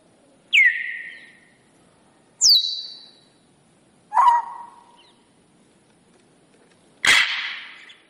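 Four separate bird calls, each dying away in an echo. The first three are short whistles that drop sharply in pitch, the second the highest and the third the lowest. The last, near the end, is a harsher, noisier squawk.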